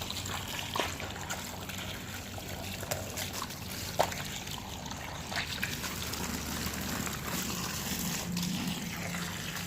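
Running water trickling steadily, with a few small knocks, the sharpest about four seconds in.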